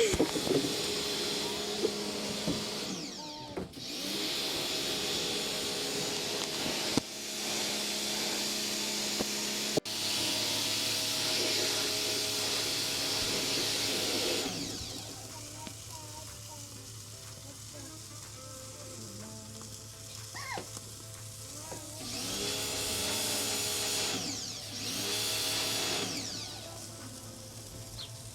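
Small electric motor tool whirring steadily, used to clean wood. It cuts off suddenly about halfway through and runs again for a few seconds near the end.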